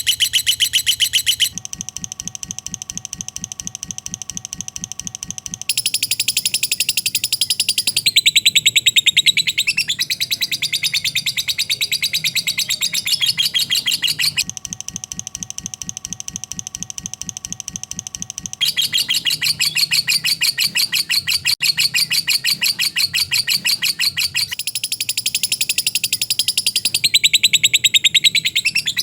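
Lovebird's 'ngekek' song: a long, unbroken chattering trill of very rapid high chirps. Its pattern and loudness shift from section to section, with two quieter stretches.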